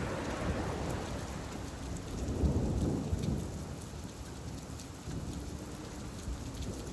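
Steady rain falling, with a low rumble swelling up and dying away about two and a half seconds in.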